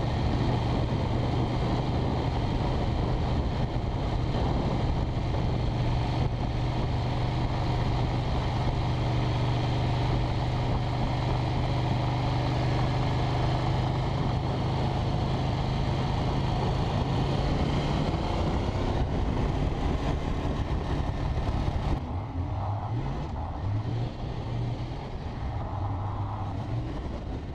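Motorcycle engine running at a steady pitch while riding. Over the last several seconds the engine note shifts and falls in steps and the sound gets quieter.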